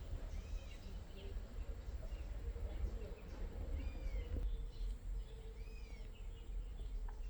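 Birds calling with short, arched chirps now and then, over a steady low rumble.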